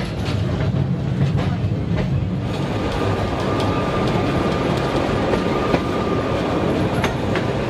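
Sóller's vintage electric tram running on its rails, a steady rumble with scattered clicks of the wheels over the track. A faint thin whine comes in for a few seconds in the middle.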